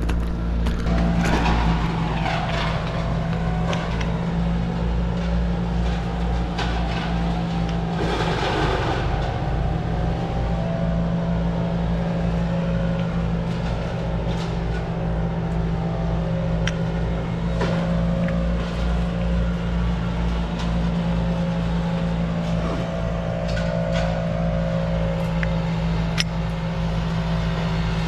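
An engine running at a steady speed with an even pulsing low note, with a few brief louder noisy swells over it.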